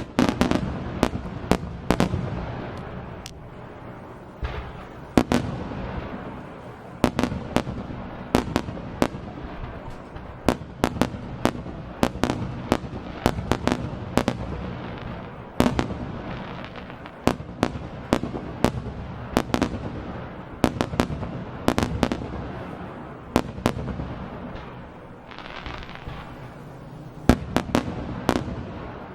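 Aerial fireworks bursting in quick succession: many sharp bangs, several a second at times, over a continuous low rumble of their echoes.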